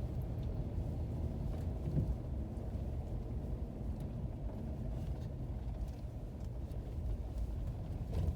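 Steady low rumble of a car driving on a snow-covered road, heard from inside the cabin: engine and tyre noise, with a small knock about two seconds in.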